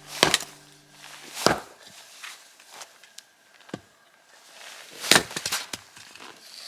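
Firewood being chopped or split: a few separate sharp knocks of a blade into wood, then a quick run of several knocks near the end.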